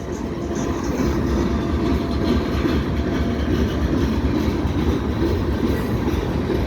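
Norfolk Southern freight train rolling past on a railroad bridge: a steady, continuous rumble of wheels on the rails.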